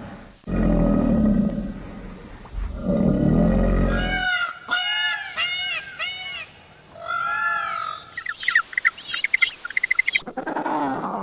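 Several animal calls, one after another. First come about four seconds of low, grunting roars. Then comes a series of calls that rise and fall in pitch, and near the end a quick run of short, high chirps.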